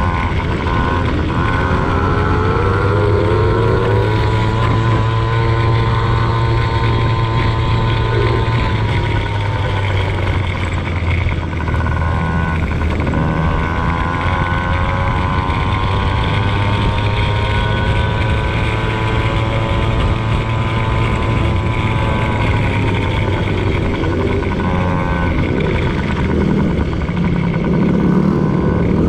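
Motocross bike engine being ridden, its revs rising and falling repeatedly over a steady low rumble.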